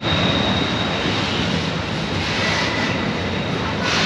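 Double-stack container freight train rolling past, a steady rumble of wheels on the rails.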